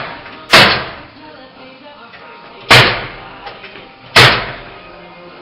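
Three loud, sharp bangs of a carpenter nailing into ceiling framing, each ringing out for about a second. The bangs come about two seconds apart, then a second and a half.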